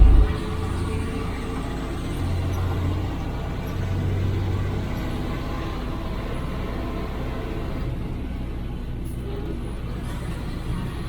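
IFA L60 truck's diesel engine running steadily under way, heard from inside the cab, with a deep drone that swells briefly a couple of seconds in. A single heavy low thump at the very start.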